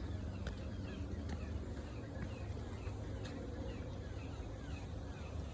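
A bird repeating short falling chirps a few times a second, over footsteps crunching on the trail and a low wind rumble on the microphone.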